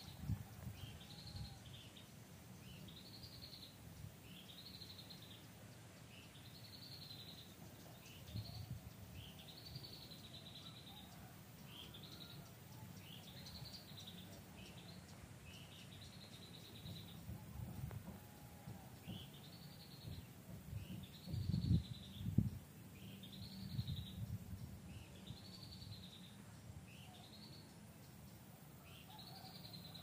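A bird calling over and over, each call a short high note that rises and falls, about one every second or so, with a brief pause about halfway. Low rumbling bumps on the microphone, loudest about two-thirds of the way through.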